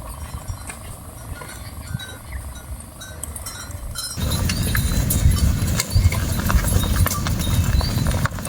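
Hooves of a herd of cattle clopping as the animals are driven along. The sound turns abruptly louder and denser about four seconds in.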